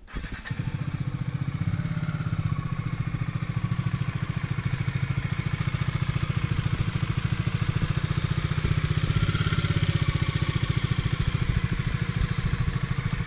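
Bajaj Dominar 400 motorcycle's single-cylinder engine starting and settling into a steady idle through its stock exhaust, an even rapid pulse.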